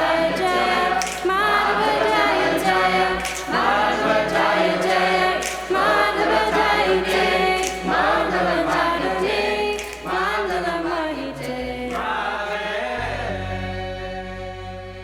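Devotees singing a kirtan together as a choir, with metallic strokes about once a second on the beat. About thirteen seconds in the singing stops and a held chord fades away.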